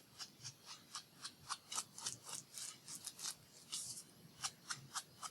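Edges of paper pieces being inked by rubbing ink along them: faint, quick scratchy strokes, several a second.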